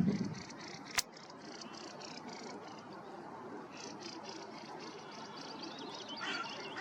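Mallards quacking a few times near the end over a steady background wash of running river water, with faint songbird chirps. A single sharp click sounds about a second in.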